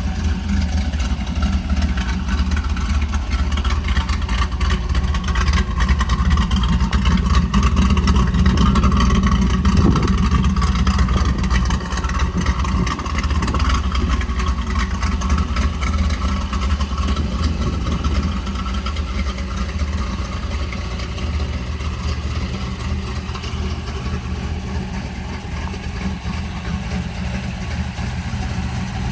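1967 Camaro Z/28's 302 V8 running, getting somewhat louder over the first ten seconds, then easing back to a steady idle-like run.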